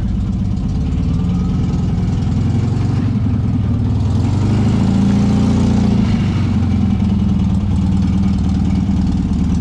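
A car engine running steadily at idle with a deep, low exhaust note, growing slightly louder around the middle.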